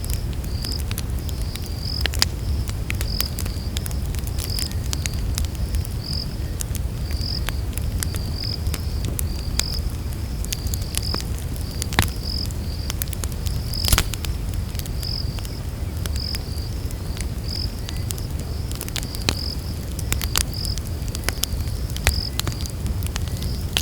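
Campfire crackling, with scattered pops, two of them sharper about halfway through, over a low steady rumble. A night insect chirps through it in an even rhythm of about one high chirp a second.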